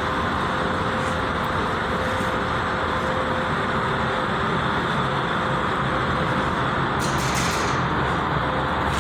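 Steady rushing vehicle noise, like passing road traffic, with a faint steady hum and a brief hiss about seven seconds in.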